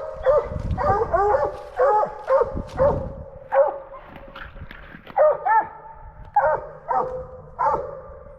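Coonhounds barking at the tree in a quick run of loud barks, pausing briefly about four seconds in, then barking again several times near the end.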